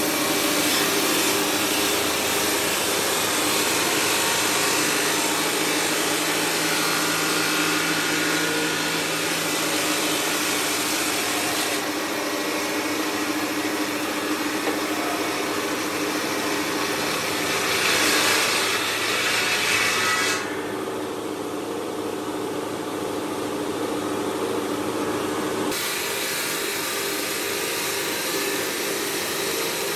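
Stone-processing factory machinery running steadily: a loud hiss over several steady hums. The hiss drops away abruptly about two-thirds of the way through and returns a few seconds later.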